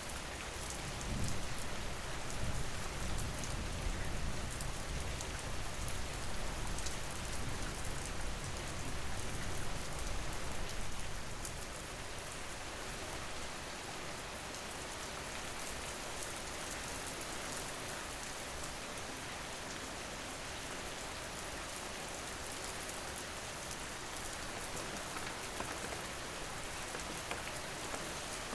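Steady rain falling, an even hiss and patter of drops, with a deeper low rumble through roughly the first ten seconds.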